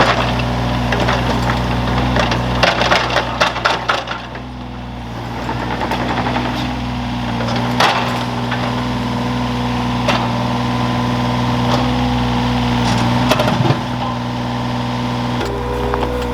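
Excavator's diesel engine running steadily while wood cracks and splinters: roots or timber breaking under the bucket. A quick run of cracks comes a few seconds in, then single sharp snaps now and then.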